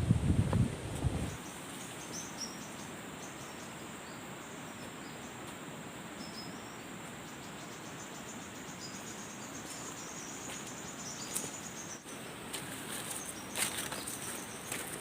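Crickets and other insects chirping and trilling steadily, with a thin high whine running under the chirps. A low rustle fills the first second, and a few sharp clicks come near the end.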